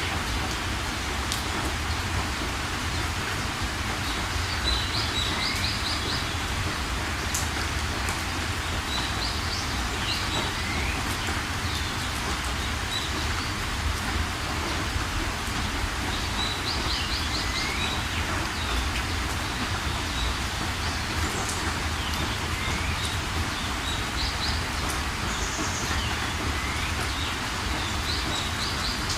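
Steady rain, with birds calling over it: short rising chirps and quick trills of four or five notes, repeating every few seconds.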